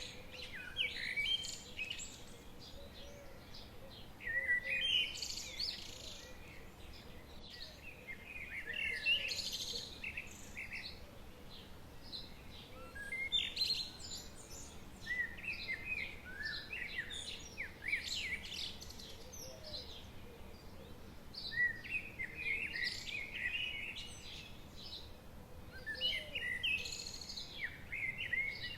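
Songbirds singing in a forest: phrases of chirps and trills every few seconds, over a faint steady hiss.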